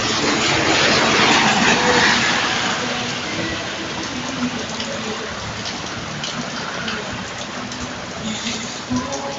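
Steady rain falling, loudest in the first couple of seconds, then settling to an even patter.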